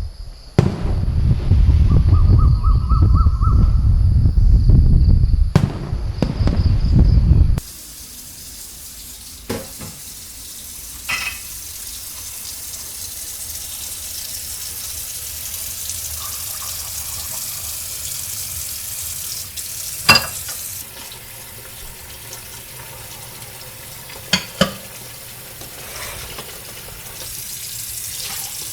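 Fireworks display: a loud, continuous low rumble of bursts for about seven and a half seconds, then a sudden cut to a much quieter steady hiss with a few sharp clicks.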